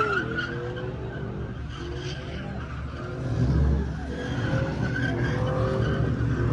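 Pickup truck engine running hard while its tyres squeal in a burnout, the engine swelling louder about three and a half seconds in.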